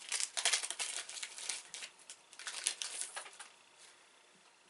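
Plastic snack wrapper crinkling as a package of chocolate wafer sticks is handled and opened, in two spells of rustling, the second ending about three and a half seconds in.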